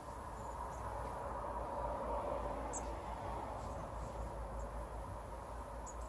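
Several brief, high-pitched chirps from small birds at a feeder, the clearest about three seconds in. Behind them runs a steady background hiss and rumble, with a faint constant high whine.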